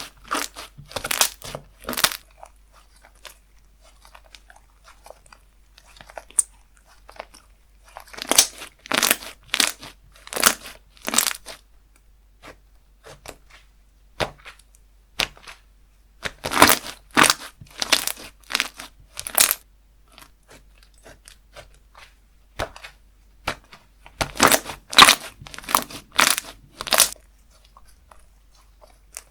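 Slime being squeezed and pressed by hand, making runs of sharp clicks in four bursts, with quieter handling between them.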